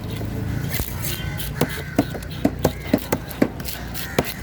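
A fish cutter's knife chopping through fish on a cutting board: a quick run of about eight sharp chops starting about a second and a half in, over market chatter.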